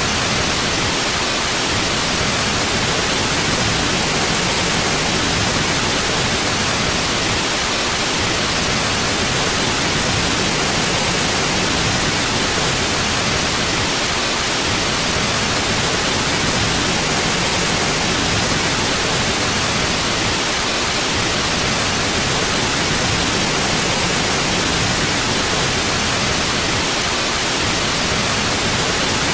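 Steady white noise: an even, unchanging hiss with no events in it.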